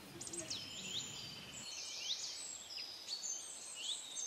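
Birds calling: many short, high chirps and quick falling whistles overlapping with briefly held high notes, over a faint background noise that drops away about a second and a half in.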